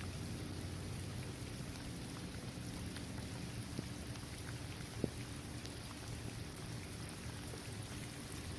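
Steady rain falling on a paved basketball court, trees and grass, with individual drops ticking through it and a low rumbling undertone. Two sharper drop hits stand out, one just before the middle and one about halfway through.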